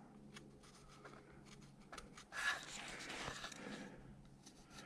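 Faint scratching of a line being drawn by hand on the wooden carving, loudest a little past the middle, over a steady low hum.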